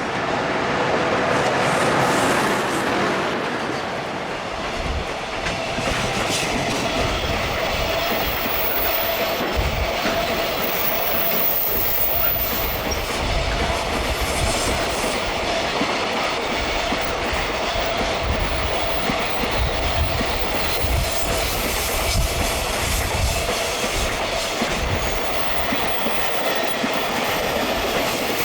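A long freight train running through at speed, its wagons' wheels clattering in a steady rhythm over the rail joints, with a steady ringing tone from the wheels on the rails.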